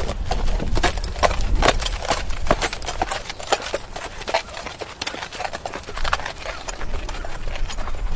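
Horse walking, its hooves striking the ground in an uneven run of sharp clip-clops, several a second, over a low rumble.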